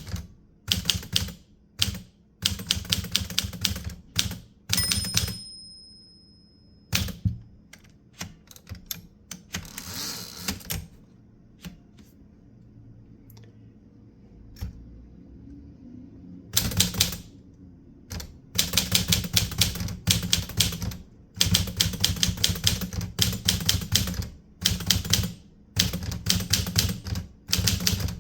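Typewriter being typed on: runs of rapid key strikes broken by short pauses, with a longer lull in the middle before steady fast typing resumes. A brief high ringing tone comes about five seconds in.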